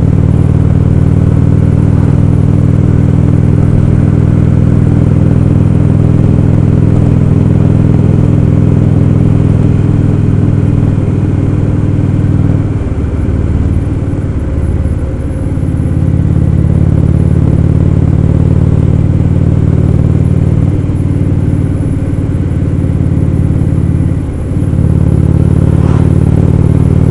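Indian Roadmaster's V-twin engine running at steady cruising speed, heard from the rider's seat over wind noise. The engine note drops off briefly twice, once about halfway through and once near the end, then comes back up.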